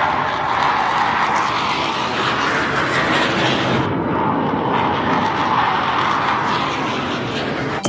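Aircraft flying overhead: a loud, steady engine drone that swells and eases slightly. The planes come from a nearby training centre.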